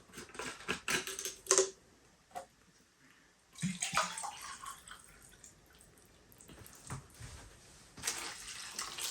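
Water being poured into a slow cooker pot over the chicken, in two spells: a short pour about three and a half seconds in and another starting about a second before the end. A few light clicks and knocks of handling come in the first two seconds.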